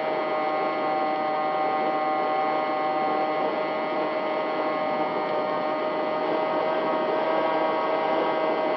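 RC plane's motor and propeller running at a steady throttle: a constant whine of several tones over a rushing noise, with no change in pitch.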